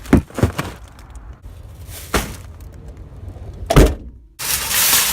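A few dull thuds and knocks, the loudest about four seconds in, then an abrupt switch to a loud, steady rushing noise near the end.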